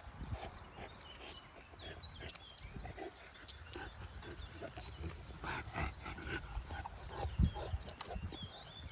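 Boerboel dog sounds close by, irregular and non-barking, with a heavy thump about seven and a half seconds in.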